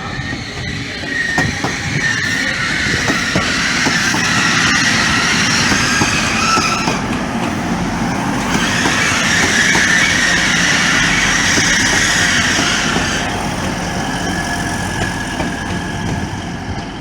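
Grand Central class 180 diesel multiple unit running past close by: the rumble of its underfloor diesel engines and its wheels on the rails. It builds up over the first few seconds, is loudest through the middle and eases off near the end.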